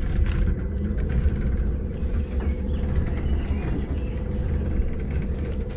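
Tourist mountain monorail car running on its rail. A steady low rumble carries a constant motor hum.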